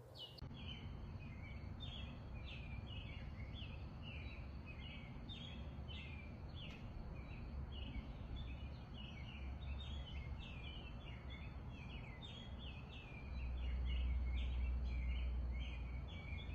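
A songbird singing a long run of short, downward-sweeping chirps, about two a second, over a low steady rumble that grows louder near the end.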